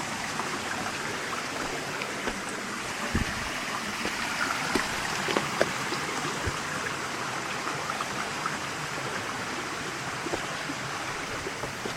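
Steady rush of flowing stream water, with a few scattered small knocks and snaps.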